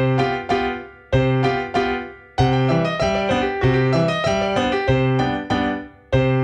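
Background piano music, a light tune of struck notes in phrases that die away and start again every second or so.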